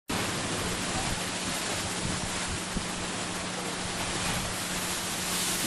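Steady rushing of sea surf with a faint steady hum beneath, starting abruptly and cut off suddenly near the end.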